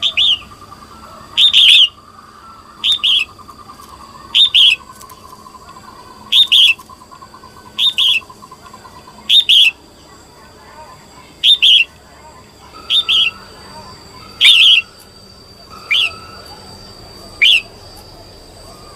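Red-whiskered bulbul calling: a short, loud chirping call repeated about every one and a half seconds, a dozen times. It is the female bulbul's call used by bird keepers to stir up male birds.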